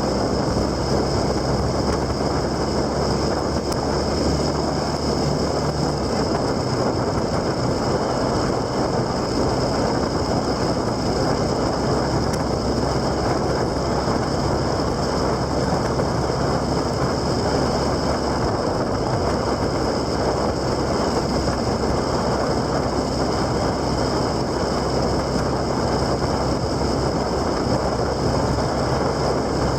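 Steady road noise from a vehicle under way: wind rush and a low engine hum holding a near-constant speed, with slight shifts in the engine note.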